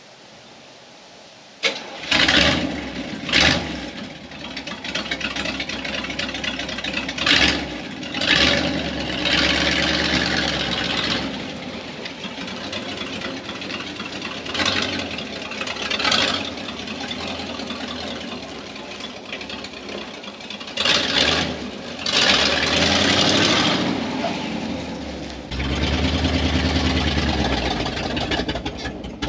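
A 1978 Chevy K10 pickup's engine starts up a little under two seconds in. It is then blipped several times and settles between revs into a steady idle, with more revving later and a louder, steady run near the end. The owner says the truck runs horribly.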